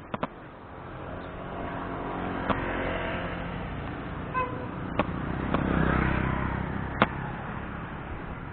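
A motor vehicle's engine and road noise swell and fade as it passes, loudest about six seconds in. Several sharp clicks or knocks come along the way.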